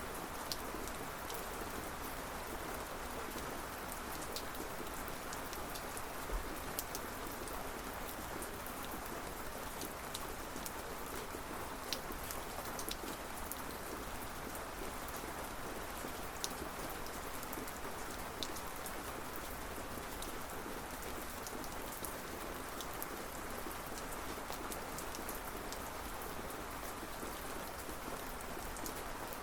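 Steady rain falling, an even hiss with scattered sharp drop ticks standing out here and there.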